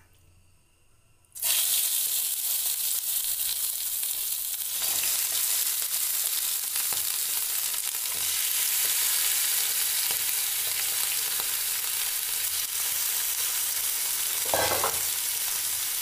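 Marinated country chicken pieces frying in hot mustard oil in a pan: a loud sizzle starts suddenly about a second and a half in as the first pieces hit the oil and keeps going steadily as more are added, with a brief knock near the end.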